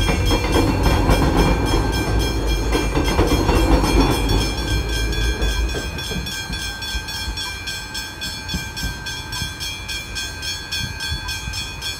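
An X'Trapolis electric suburban train rumbles over the level crossing and fades out about halfway through. Over it, the crossing's warning bell rings on, fast and evenly, the whole time.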